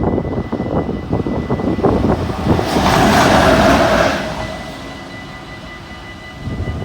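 A train passing over a level crossing: wheels clattering rapidly over the rail joints and crossing, swelling into a louder rush for about a second and a half around three seconds in, then easing to a fading rumble.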